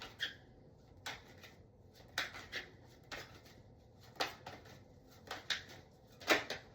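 Tarot cards being handled and laid out: a series of short, sharp card clicks and snaps, about ten over several seconds, irregularly spaced.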